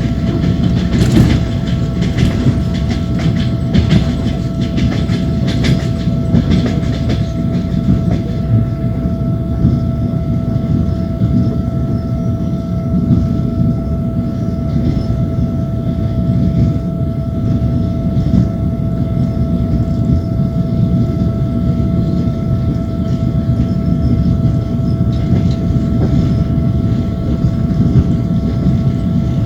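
Train wheels clacking over rail joints, heard from aboard a moving train, over a steady rolling rumble with a constant whine. The clacks are thickest in the first several seconds, then the running settles.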